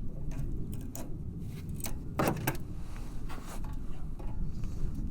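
Small metal clicks and scrapes of pliers working at the parking brake cable's retaining clip, with one louder knock about two seconds in, over a steady low background noise.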